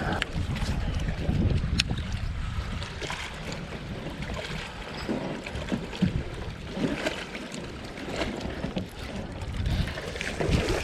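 Uneven low rumble of wind buffeting the microphone on an open fishing boat, with a sharp click about two seconds in.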